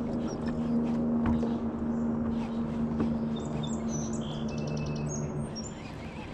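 Birds chirping in short high calls over a steady low hum, which stops about five and a half seconds in.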